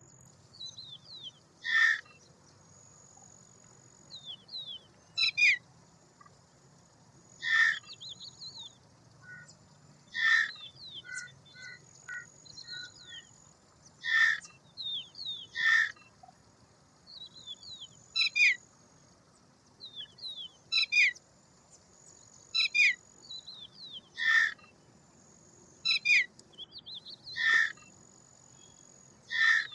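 Birds calling: a loud, harsh call repeats about every two to three seconds, with short falling whistled notes between the calls.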